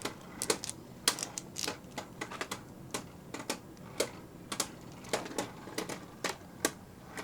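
Two Beyblade spinning tops, Meteo L-Drago and Gravity Perseus, battling in a stadium: a run of sharp, irregular clicks as they strike each other, a few times a second.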